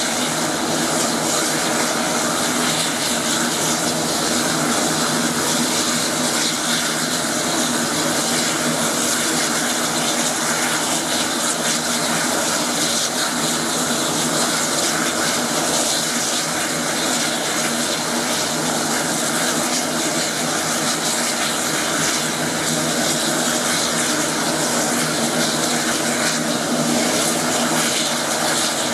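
Air Tractor 802's Pratt & Whitney PT6A turboprop engine and propeller running steadily at constant power, with no change in pitch or loudness.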